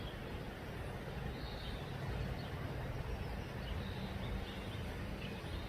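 Scattered faint bird chirps over a steady low rumble.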